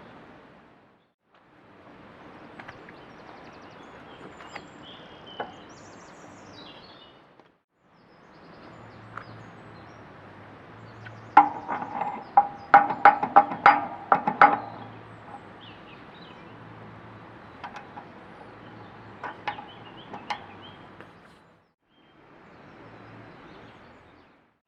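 Sharp metal-on-metal knocks with a short ring, a quick run of about a dozen over some three seconds in the middle and a few single knocks before and after, over a low steady hiss.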